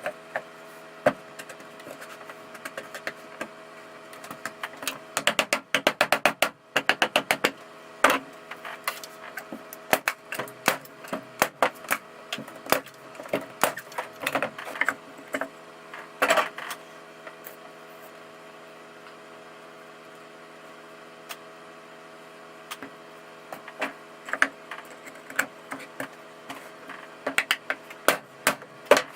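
Small wooden blocks and pine boards being handled and pressed into place, giving many light wooden knocks and clicks, with a quick run of clicks about five seconds in and a quieter spell in the middle. A steady low hum runs underneath.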